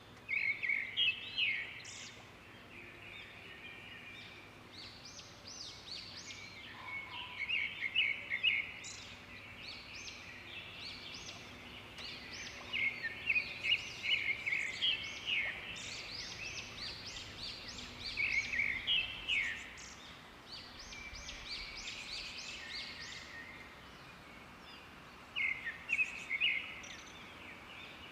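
Small birds chirping in repeated bursts of quick, high notes, over a faint steady background hiss.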